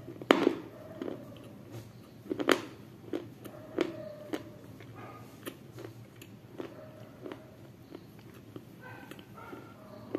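Close-miked biting and chewing of a thick, dry, hard white bar. A loud crunching bite comes about half a second in and another about two seconds later, then a run of smaller crunches as it is chewed.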